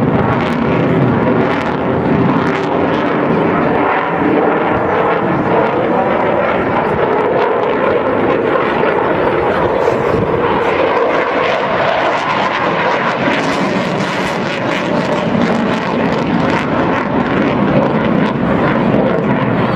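Display aircraft flying past, its engine loud and continuous, the pitch rising toward the middle and then falling away.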